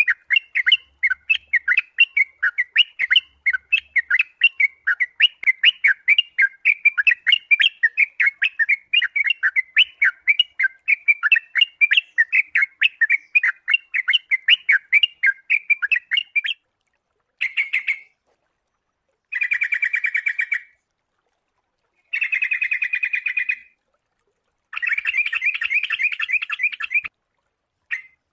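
Sooty-headed bulbul (kutilang) calling in a fast, unbroken run of short repeated notes for about sixteen seconds, then in four shorter bursts of a second or so with pauses between them.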